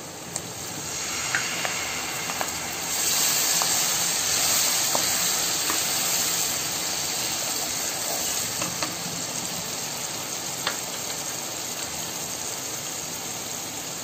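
Hot oil and spiced masala sizzling hard as about half a cup of water goes into the pan: the hiss grows much louder and brighter about three seconds in, then slowly eases as the gravy simmers. A spatula stirs with a few light taps on the pan.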